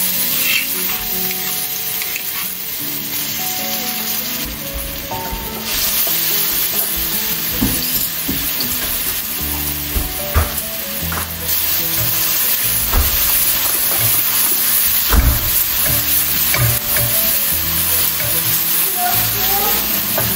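Food sizzling in hot oil in a pan as it is stir-fried, a steady hiss with a few knocks of the spatula against the pan.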